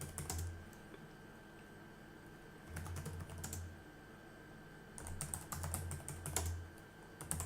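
Typing on a computer keyboard in three short bursts of rapid key clicks, with pauses between them.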